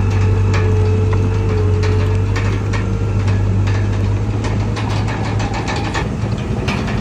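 Komatsu D31PX bulldozer's diesel engine running steadily with a deep hum, with repeated short metallic clanks and clicks over it.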